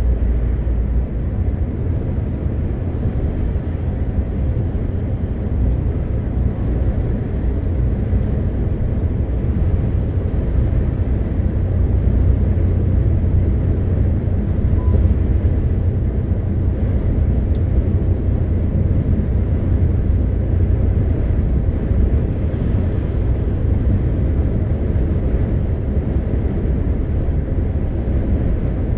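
MAN TGX 520 truck's straight-six diesel engine and tyres running steadily on the road, a low, even drone.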